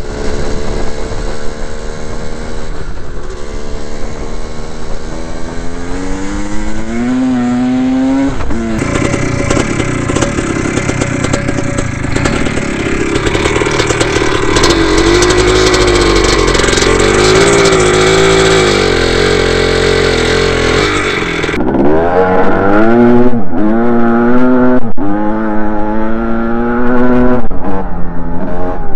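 Dirt bike engines revving and accelerating, pitch climbing under throttle and dropping off again in repeated surges. The sound changes abruptly twice, as from one bike's clip to another's, with a rougher, noisier stretch in the middle.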